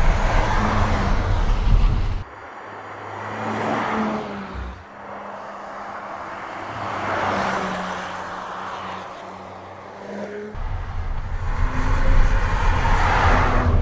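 Audi RS 4 Avant's twin-turbo V6 engine driving by on the road. It is loud at first, drops suddenly quieter about two seconds in and swells twice as the car passes, then turns loud again from about ten seconds in.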